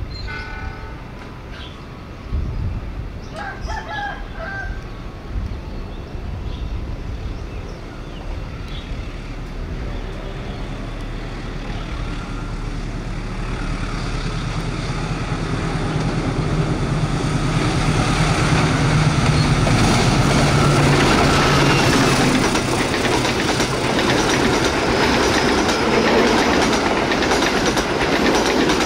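Diesel-hauled passenger train approaching and passing at speed: the locomotive's engine hum builds up, then the coaches rush by loudly with wheels clattering on the rails.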